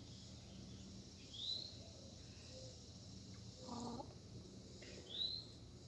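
A bird calling twice, about four seconds apart, each a short high note that arches up and over, above a steady faint hum and high hiss.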